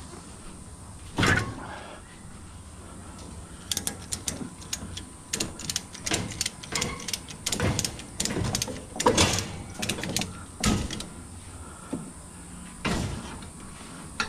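A thump, then a ratchet strap being cranked tight: bursts of sharp ratcheting clicks, with a last click near the end.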